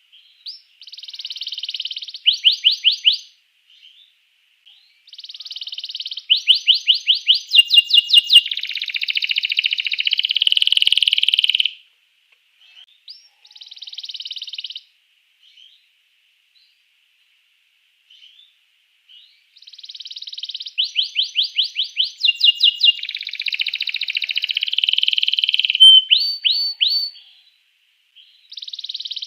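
Domestic canary singing in long phrases of buzzy rolls and quick runs of repeated whistled notes, about five or six notes a second. The phrases are broken by pauses of a few seconds, with a long phrase early on and another in the second half.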